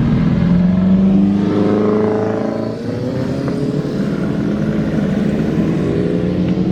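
Car engine accelerating. Its pitch climbs for a couple of seconds, drops with a gear change about three seconds in, then rises again more slowly.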